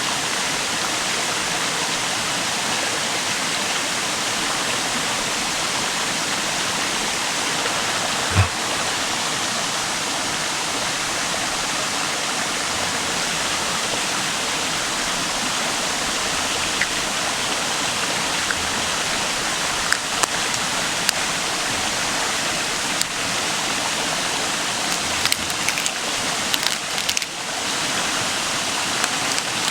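A river flowing steadily, a constant rushing murmur. A single thump sounds about eight seconds in, and scattered light clicks and taps come in the second half.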